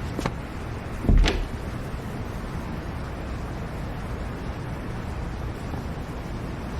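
A steady low background rumble, broken by a light knock and then a heavy thump about a second in.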